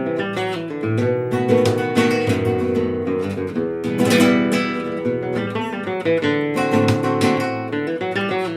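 Background music: acoustic guitar strummed and plucked in a Spanish or Latin style, with frequent chord strums.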